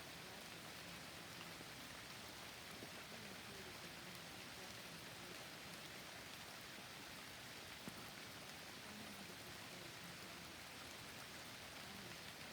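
Steady, soft forest rain falling, an even hiss of many drops, with one sharper drop about eight seconds in.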